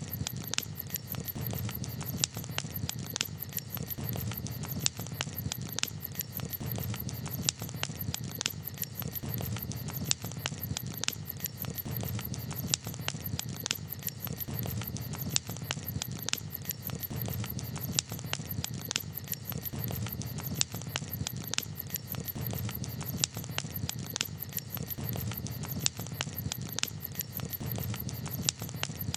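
Campfire crackling, with frequent irregular sharp pops and snaps over a low, steady rumble.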